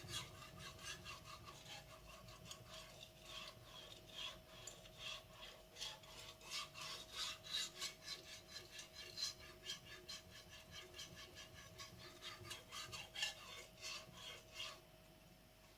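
Blue-steel Japanese gyuto blade being stroked back and forth on a wet Naniwa whetstone, a steady rhythmic scraping that stops near the end.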